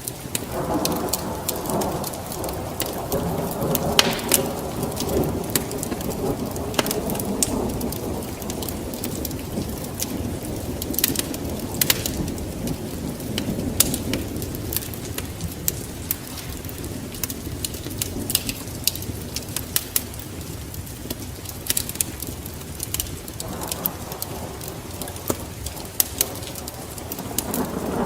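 Steady rain with rolling thunder: a long rumble at the start that fades over about twenty seconds, and another building near the end. A wood fire crackles throughout with sharp, scattered pops.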